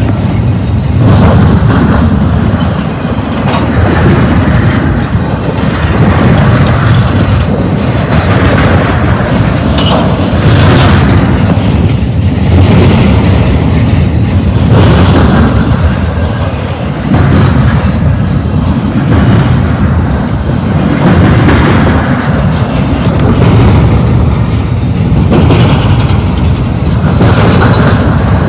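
BNSF double-stack intermodal freight train rolling past at close range: loud, steady rumble of steel wheels on rail, swelling and easing about every two seconds as the cars' wheel sets go by.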